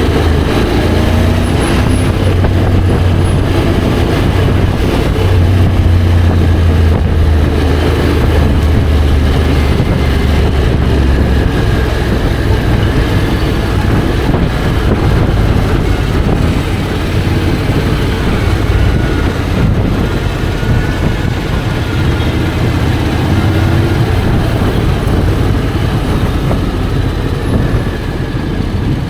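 Honda X-ADV 750's parallel-twin engine running under way, under heavy, steady road and air noise. A low drone is strongest in the first ten seconds or so.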